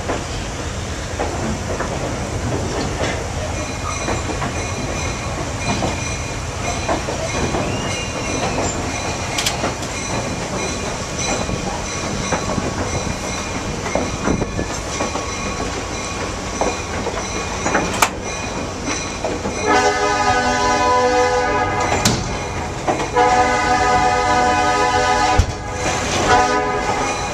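Passenger train running on the rails, heard from aboard, a steady rumble with occasional clicks of the wheels. From about twenty seconds in, the train's horn sounds in several blasts, two long ones followed by shorter ones, the last running on.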